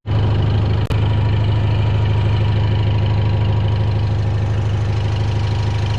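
Kubota 65-horsepower tractor's diesel engine idling steadily.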